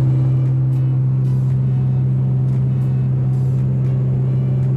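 Car driving at a steady speed: a constant low engine and road drone that holds one pitch throughout.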